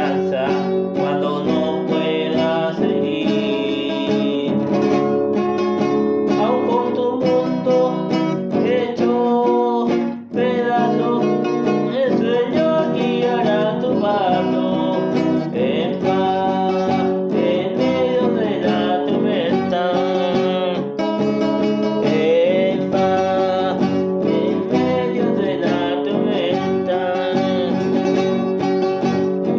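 Acoustic guitar playing a song in G major, with a voice singing over it. The guitar drops out briefly about ten seconds in.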